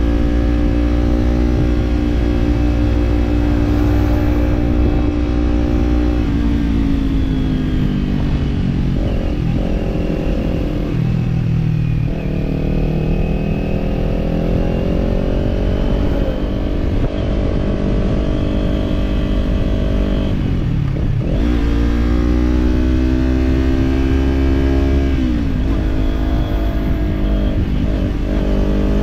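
Kawasaki parallel-twin motorcycle engine with an aftermarket slip-on exhaust, running on the road. It holds steady revs, eases off about six seconds in, and then climbs in pitch again. There are sharp breaks at gear changes, one about twenty-one seconds in, and the revs drop once more and pick up near the end.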